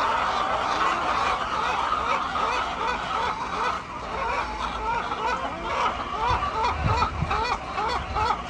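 A flock of poultry calling, many overlapping calls at once; from about halfway through, short arched calls repeat quickly over one another.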